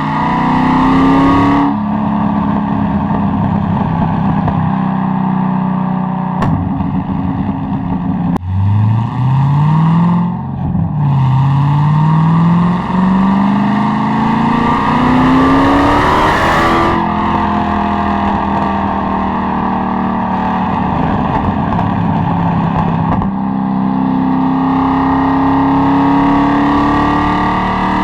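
Corvette C6 Z06's LS7 V8 accelerating hard: engine pitch climbs in long pulls and drops abruptly at each gear change, with stretches held at steady revs in between and another pull building near the end.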